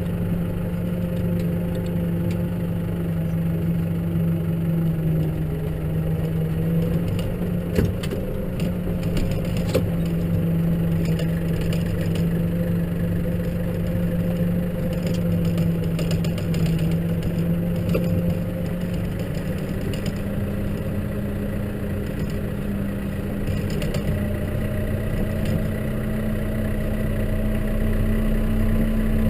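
Case tractor engine running steadily, its pitch climbing gradually over the last ten seconds, with a couple of sharp knocks about eight and ten seconds in.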